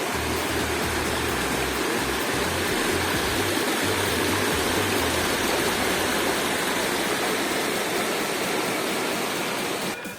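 Steady rush of falling mountain water, with an uneven low rumble underneath.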